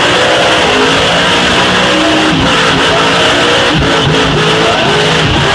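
Pickup truck engines revving hard under load in a truck tug-of-war, their pitch wavering up and down.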